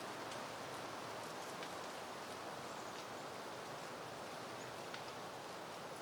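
Soft wind rustling through peony foliage and blooms: a steady even hiss with a few faint light ticks.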